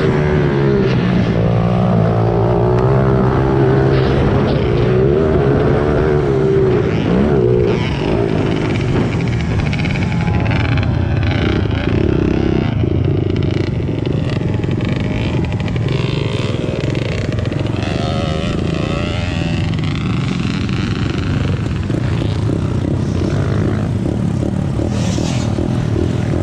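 Small single-cylinder four-stroke pit bike engines revving up and down continuously as they are ridden around a track, the pitch rising and falling with the throttle.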